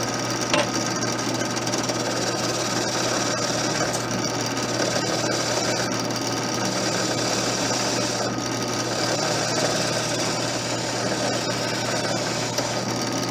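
Hacksaw blade held against a rubber expansion plug that is spun on a motor-driven bolt, cutting a shallow groove in it: a continuous rasping over a steady motor hum.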